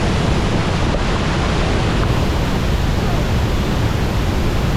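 Tegenungan Waterfall's water falling into its plunge pool close by: a loud, steady rushing noise.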